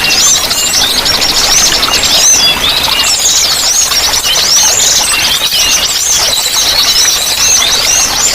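Several small songbirds singing at once: dense, high, fast chattering trills and rising-and-falling whistles that go on without a break.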